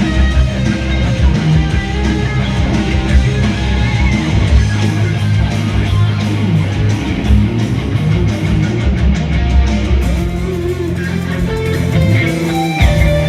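Heavy rock instrumental: electric guitar over bass guitar and drums, the arrangement changing about ten seconds in.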